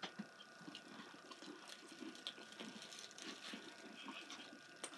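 Faint chewing of a cookie: soft, irregular mouth sounds and small clicks, over a faint steady hum.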